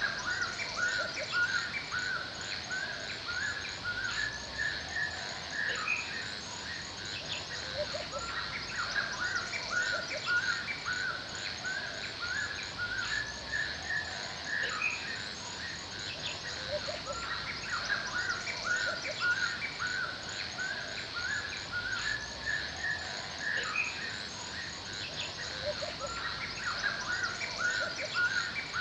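Forest ambience: several birds chirping continuously in short repeated calls, over a steady high insect drone.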